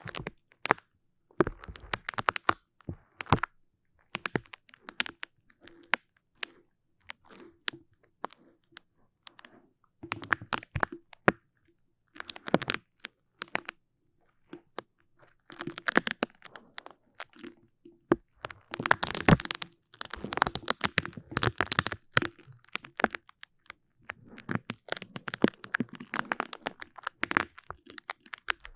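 Close-miked sticky crackling and peeling: a tacky surface pulled away again and again, in irregular bursts of sharp crackles separated by short silent gaps.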